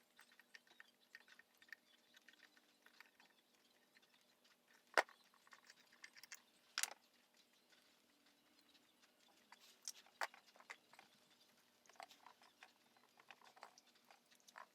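Faint, scattered clicks and light taps of small tools and parts being handled, with sharper clacks about five and seven seconds in and a couple more around ten seconds.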